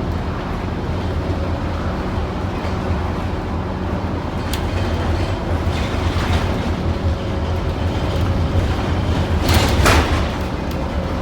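Scania N230UD OmniCity double-decker bus on the move, heard from inside; its five-cylinder diesel engine gives a steady low drone. A short, louder burst of noise comes about ten seconds in.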